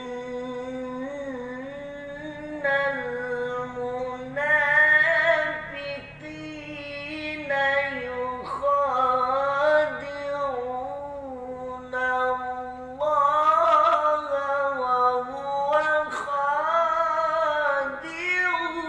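A solo voice chanting Quranic recitation (tilawah) in long, ornamented melodic phrases with wavering pitch and no accompaniment.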